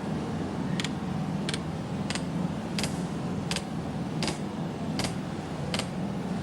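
Short sharp ticks at an even pace, about one every three quarters of a second, over a steady low hum.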